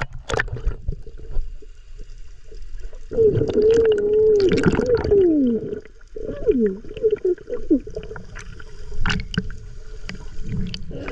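Sea water sloshing and gurgling around a camera held at the water's surface, with a steady low rumble and small knocks. A muffled pitched sound wavers and falls twice through the middle.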